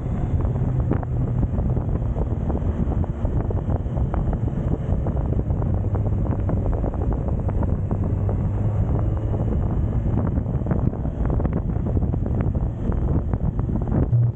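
Heavy wind buffeting on the microphone over the Suzuki GSX1250FA's inline-four engine running steadily while riding.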